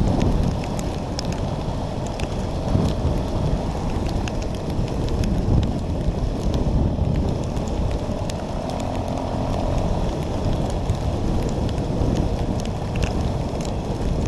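Dirt bike being ridden, its engine running under heavy wind buffeting on the microphone, with scattered light ticks.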